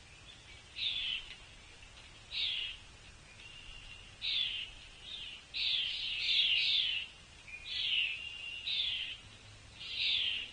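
Songbird calling repeatedly: short, high, down-slurred notes, about nine in all at uneven intervals, with three or four in a quick run in the middle.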